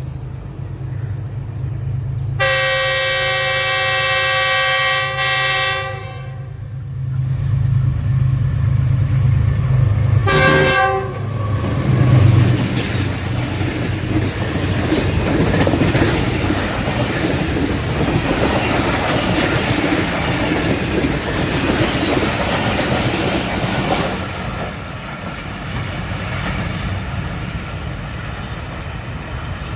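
Diesel locomotive horn sounding one long blast and, a few seconds later, a short one over the low rumble of the engine. Then the rattle and clatter of train wheels on the rails grows louder for about a dozen seconds before easing.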